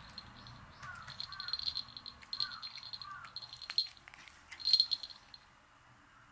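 A bird giving harsh, high-pitched rattling calls in several bursts, with a few lower curling notes among them; the loudest burst comes near the end.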